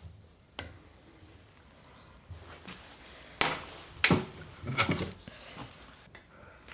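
Knocks and clunks of workshop handling: a sharp click about half a second in, then a cluster of louder knocks between about three and a half and five seconds.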